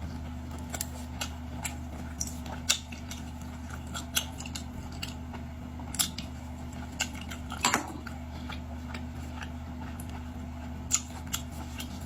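Irregular sharp clicks and cracks of seafood being eaten: shells and utensils being handled, scattered through the stretch with a brief cluster a little past the middle, over a steady low hum.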